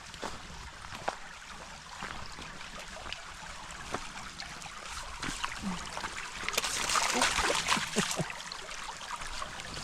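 Footsteps on a wet woodland trail, about one a second, over a steady watery hiss. A louder rustling swish comes a little past halfway and lasts under two seconds.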